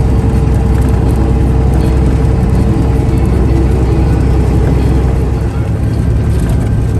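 Truck engine running with a steady low rumble and a steady hum, and a brief dip in level about five and a half seconds in.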